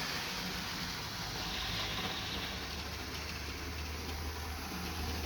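Hornby 00 gauge model train running along its track: a steady electric whirr with a low hum.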